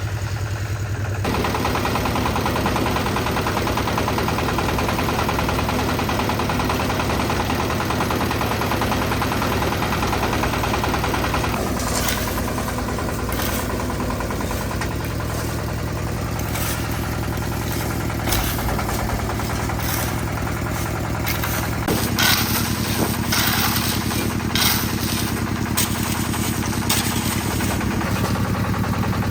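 Concrete mixer's engine running steadily, with irregular knocks and scrapes joining in from about twelve seconds in.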